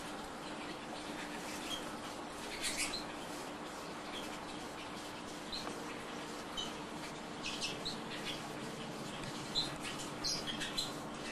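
Canaries giving short, scattered chirps and cheeps, with a few brief rustling clicks, over a steady low hum.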